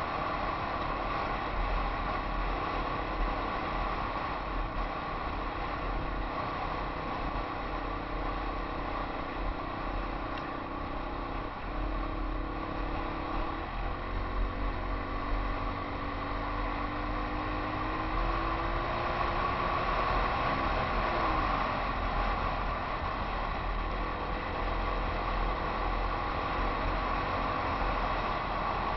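Yamaha XT 250 single-cylinder four-stroke engine running under way on a dirt trail, heard from the rider's helmet camera under steady wind and road noise. The engine note rises and falls a few times in the middle.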